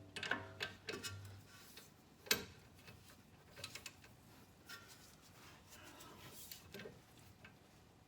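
Scattered metal clicks and clinks of hand tools against the car's front axle parts, irregular and faint, with the loudest knock about two seconds in.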